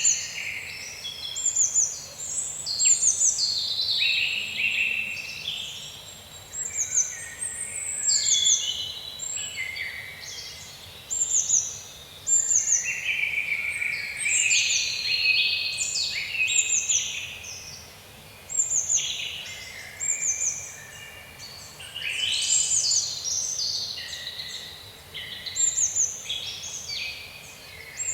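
A chorus of several birds singing and calling over one another, with short high notes that fall in pitch, repeated every second or so, over a faint steady hiss.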